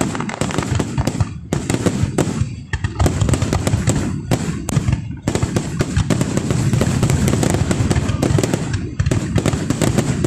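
Aerial fireworks display: a dense barrage of rapid, overlapping bangs and crackles, with a few brief lulls.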